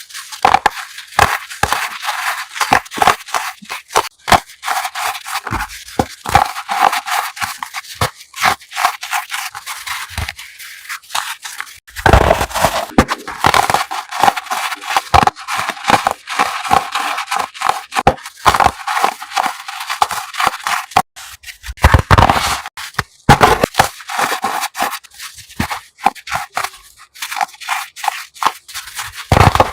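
Close-miked crushing of crunchy chalk, a dense run of crisp crackles and snaps. Heavier, deeper crunches come about twelve seconds in, about twenty-two seconds in and near the end.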